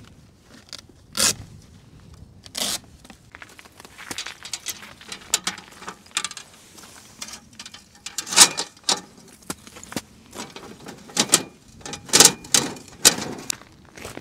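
A series of irregular crunches, clicks and clatters, the loudest about one, eight and twelve seconds in.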